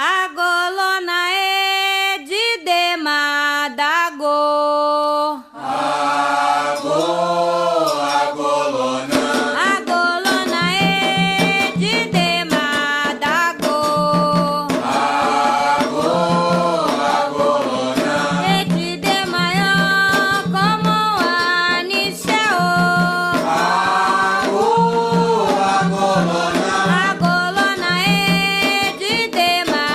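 Candomblé chant for Xangô sung in Yoruba: a voice sings alone for the first five seconds or so, then further voices and drums come in with a steady beat.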